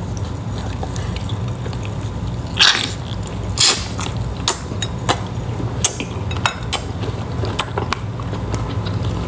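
Biting into and chewing a candy-stuffed chamoy pickle: two louder crisp crunches about two and a half and three and a half seconds in, then a run of smaller clicks of chewing, over a steady low hum.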